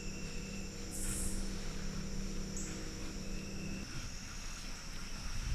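Steady high-pitched chirring of an evening insect chorus (crickets or katydids), with a brief hissy buzz about a second in. A low steady hum underneath stops abruptly about four seconds in.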